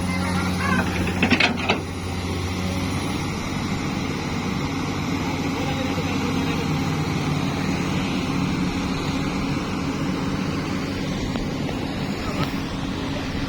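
An engine running steadily at a constant pitch, with a few sharp knocks about a second in.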